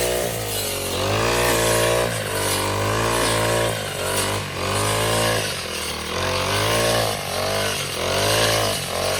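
Small petrol engine of a grass cutter revving up and dropping back again and again, about once a second, as it works through grass.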